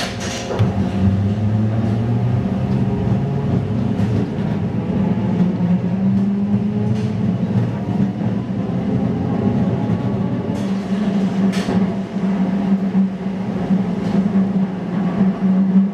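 Replica 1920s-style electric streetcar running on its rails: a steady low motor hum with some slowly shifting tones, broken by a few short sharp clicks.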